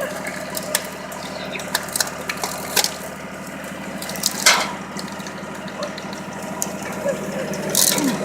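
Tractor engine running at a steady speed, driving a homemade log splitter through its rear power take-off, with scattered knocks and clicks and a louder crack about four and a half seconds in.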